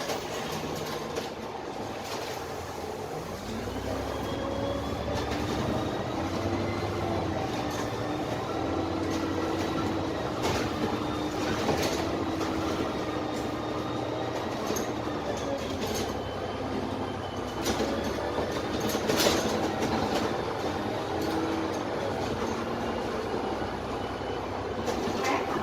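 Dennis Trident double-decker bus's Cummins ISMe straight-six diesel engine and Voith automatic gearbox heard from the lower deck. The engine note rises about three seconds in and then runs fairly steady at road speed, with a faint high whine and occasional sharp rattles from the body.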